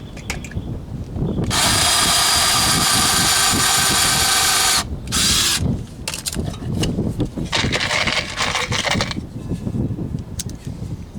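Power drill running in bursts under load: one long steady run of about three seconds, then a short burst and a weaker run a few seconds later.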